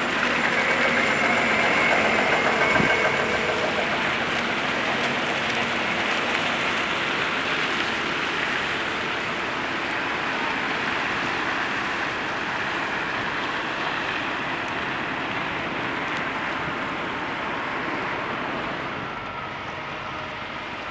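Steady vehicle noise, with a faint whine in the first few seconds and a slight fall in level near the end.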